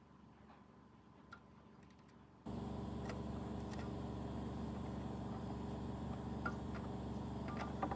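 A faint background, then a steady mechanical hum of a small motor that starts abruptly about two and a half seconds in, with a few light ticks over it.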